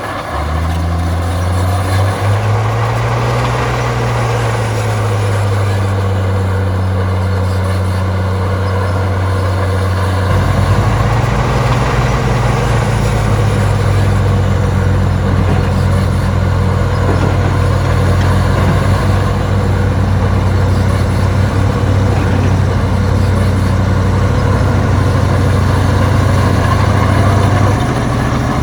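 Heavy diesel engine of earthmoving machinery running steadily, its pitch swelling and settling a few seconds in, then taking on a deeper, heavier note about ten seconds in as it comes under load.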